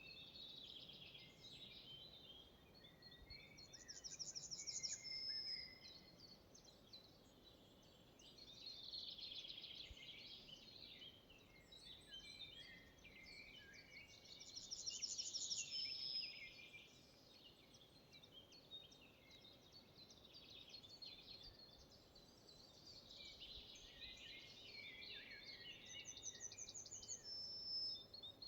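Faint songbirds singing in a forest, with several birds' phrases overlapping. The most prominent phrase repeats about every eleven seconds and ends in a fast, high trill and a short held note.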